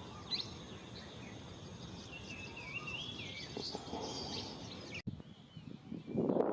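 Faint outdoor ambience of bird chirps and insects, with a warbling bird call about two to three seconds in. The ambience cuts off sharply about five seconds in, and a rushing noise rises near the end.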